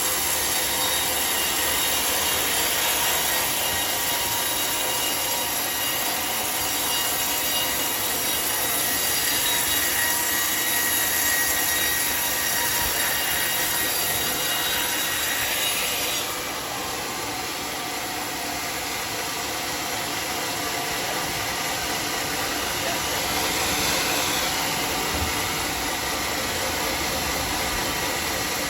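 Homemade sawmill's circular saw blade cutting through a teak log, a steady whine with high ringing tones. About halfway through, the high whine cuts off suddenly and the saw runs on slightly quieter.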